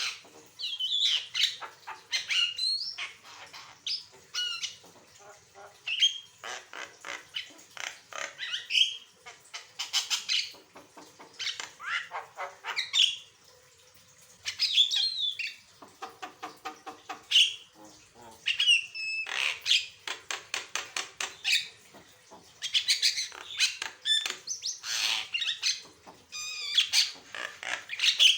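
Javan myna singing in full voice: a long, varied song of harsh squawks, fast clicking rattles and rising and falling whistles, delivered in bouts separated by short pauses.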